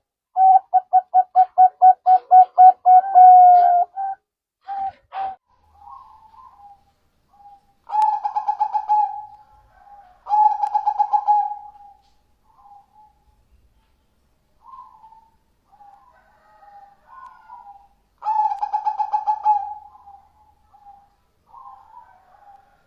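Zebra dove (perkutut) singing its staccato cooing song. It opens with a fast run of about a dozen short coos, then gives louder cooing phrases about 8, 10 and 18 seconds in, with softer single notes between.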